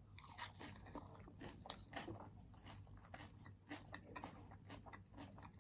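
Faint, close-up chewing of crunchy food, a scatter of small irregular crunches and mouth clicks.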